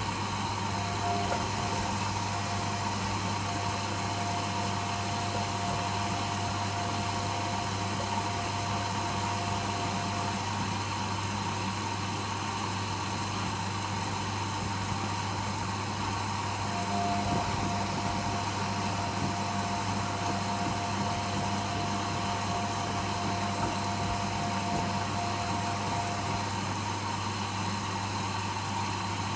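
Washing machine running mid-program with a steady low motor hum. A thin whine sets in near the start, stops after about nine seconds, and comes back for a similar stretch from about the middle.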